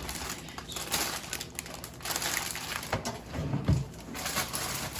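Crinkling and rustling of grocery packaging being handled, with a few knocks as items are moved about.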